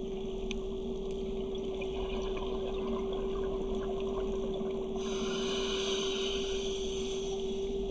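Underwater sound on a scuba dive: a steady hum with a crackle of faint clicks in the water. About five seconds in, a rush of hissing bubbles runs for about two and a half seconds, the sound of a diver exhaling through a regulator.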